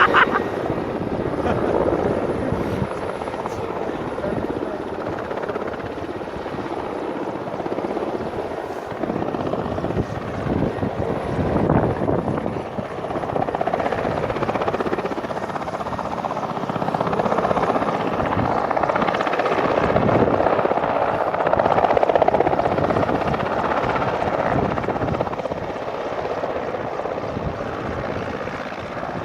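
Helicopter running with a steady rotor and engine noise that swells and eases a little.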